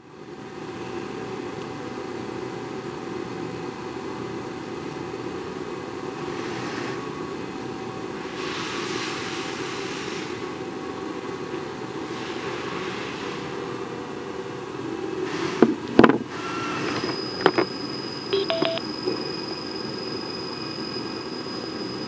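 Steady background hum and hiss of a small room. About two thirds of the way through come a few sharp clicks as the remote and helmet unit are handled and their buttons pressed, and soon after a thin, steady high tone starts and holds.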